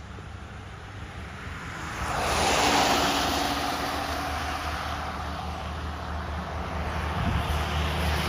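A vehicle engine's low steady hum under a rushing noise that swells about two seconds in and stays loud.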